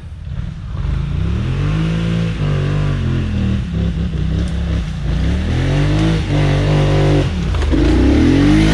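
ATV engine revved hard in about three surges, each rising, holding briefly and dropping back, as the quad is driven up a steep climb.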